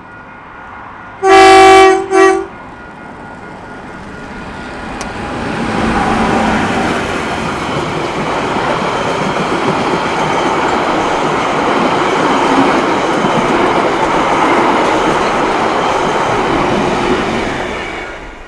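KiwiRail EF-class electric locomotive sounds its horn about a second in, one loud long blast and a short toot. Then the train runs past, the rumble of wheels on rail building over a couple of seconds, holding steady, and fading near the end.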